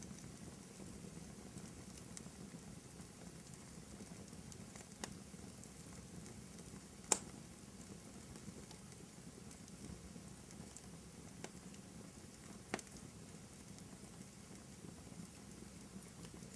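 Wood fire burning in a fireplace: a faint steady crackle with a few sharp pops, the loudest about seven seconds in and another near the thirteen-second mark.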